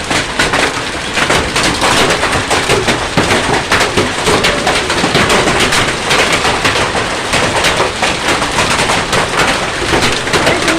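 Hail and rain pelting down in a dense, steady clatter of many small, sharp impacts over a rushing hiss.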